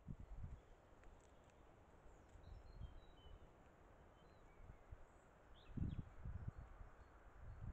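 Quiet woodland ambience with a few faint, short, high bird chirps in the background, and low muffled thumps at the start and again a little before the end.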